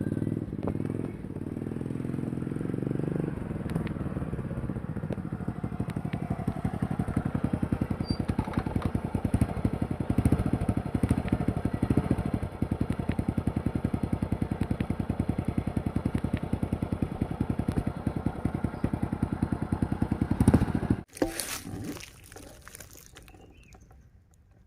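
Motorcycle engine running steadily, a fast even run of firing pulses, which stops suddenly near the end.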